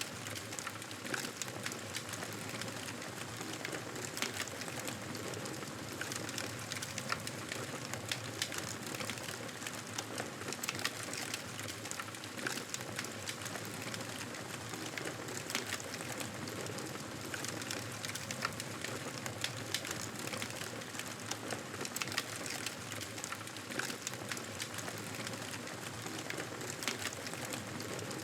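Wood fire in a fireplace crackling steadily, with frequent small sharp pops over a constant hiss.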